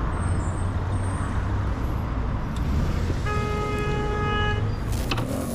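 Steady low traffic and road noise, with a vehicle horn held once for about a second and a half past the middle, and a sharp click near the end.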